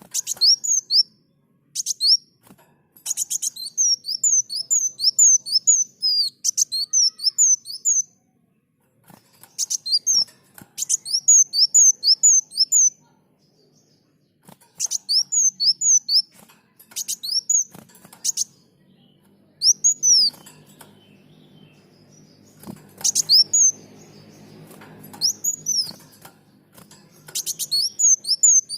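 Kolibri muncang sunbird singing: repeated bursts of quick, high, sweeping chirps, each phrase a second or two long with short pauses between. A faint low hum sits underneath for a while late on.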